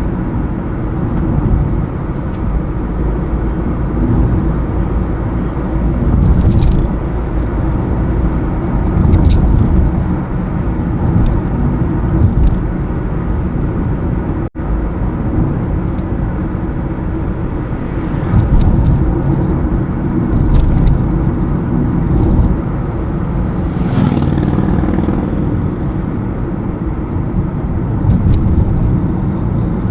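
Car driving along a highway: steady low rumble of road and engine noise, with a few brief hisses. The sound cuts out for an instant about halfway through.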